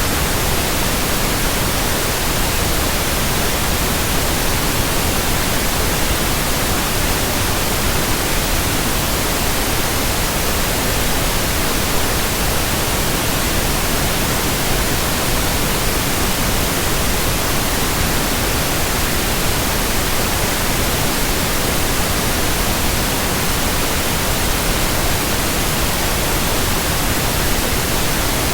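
Steady white noise: an even, unchanging hiss across the whole range, with no rhythm or break.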